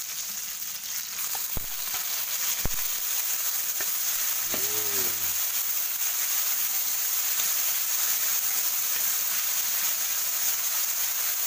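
Chopped tomatoes sizzling in hot oil in a wok with garlic and onion, a steady hiss that grows a little louder after about two seconds as the steam rises. Two sharp knocks sound at about one and a half and two and a half seconds in.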